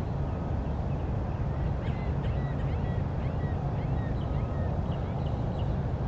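Many short bird chirps and calls, some sliding up or down, over a steady low rumble.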